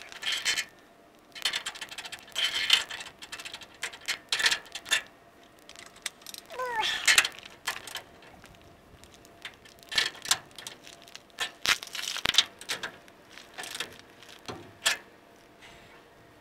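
Scattered metallic clicks, clanks and knocks of hand tools being worked, in short irregular bursts with quiet gaps between.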